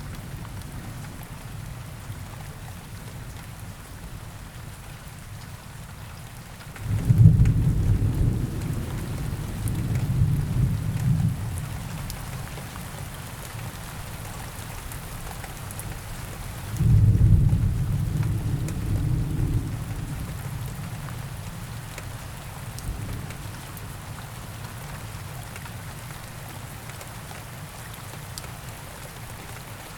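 Steady rain falling in a forest, with two low rolls of thunder, the first about seven seconds in and the second about ten seconds later, each rumbling for a few seconds before fading.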